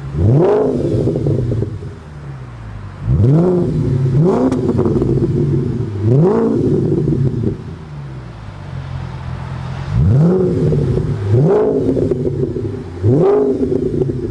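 2008 Audi S5 4.2 V8 blipped by hand at standstill, about seven quick revs, each rising sharply and falling back to idle. It runs through a custom 2.5-inch dual exhaust with an X-pipe, Street Demon and Magnaflow mufflers.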